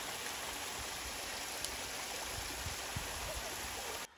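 Steady rush of flowing water, an even noise with a few faint low thumps, cut off suddenly near the end.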